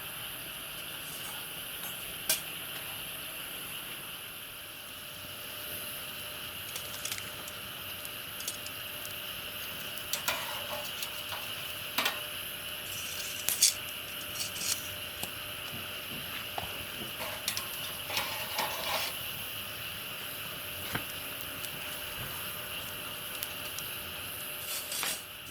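Scattered clinks, taps and scrapes of cooking utensils against cookware, over a steady high hiss.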